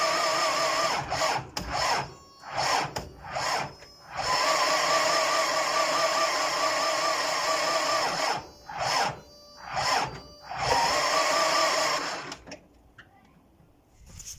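A cold engine being cranked by its starter motor: a whirring whine that wavers with each compression stroke. The cranking comes in long spells broken by short stabs, and it stops about twelve seconds in without the engine running on.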